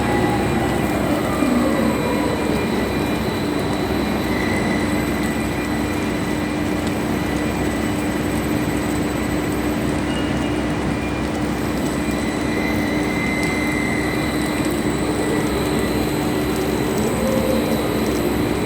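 Heavy rain pouring down as a dense, steady hiss, with a steady low hum underneath. A tone slowly rises and falls near the start and again near the end.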